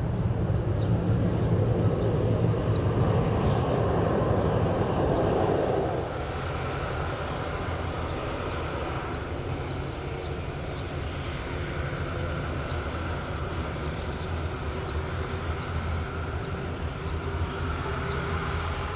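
Airliner engines running, a steady noise with a faint whine in it; the level drops suddenly about six seconds in and stays steady after.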